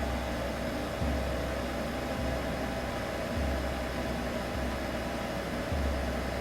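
Steady white-noise hiss with a low hum that swells and eases in a slow rhythm, a little more than a second per step, made as a baby sleep soundtrack.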